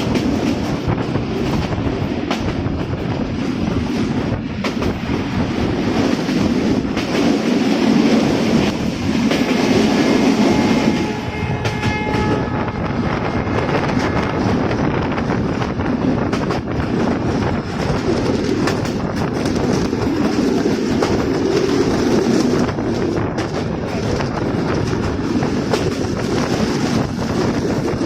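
Diesel-hauled local passenger train running on the rails, heard from aboard: a steady rumble with wheels clicking over the rail joints. The locomotive's horn sounds for a few seconds about halfway through.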